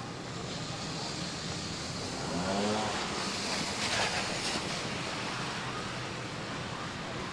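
A car driving past on a snowy street, its tyre noise swelling and fading over a few seconds in the middle, with a brief rising tone about two and a half seconds in.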